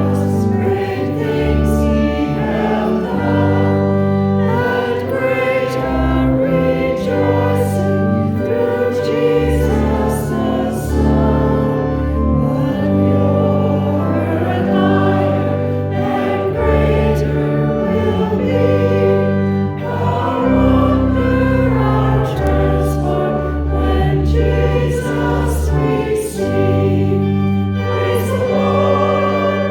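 Choir singing a slow hymn over held instrumental chords, the bass notes changing every second or two.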